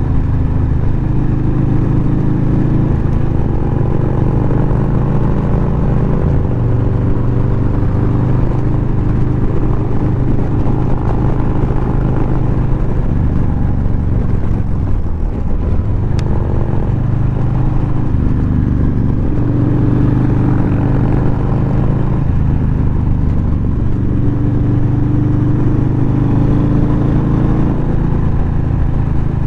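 Harley-Davidson Low Rider S V-twin engine running under way, its pitch stepping up and down with throttle and gear changes. About halfway through it falls off briefly, then picks up again.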